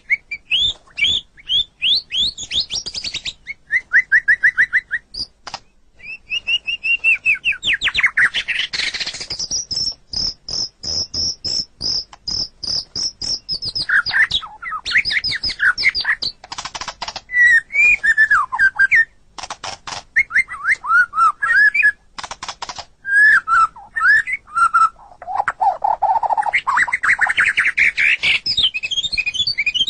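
White-rumped shama (murai batu) singing a long, varied song of quick trills, rattles and rising and falling whistled notes, with one high whistle held for about four seconds near the middle.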